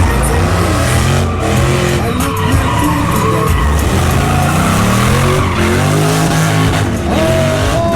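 A pickup truck's engine revving up and down repeatedly, its rear tires spinning and squealing against the pavement in a burnout.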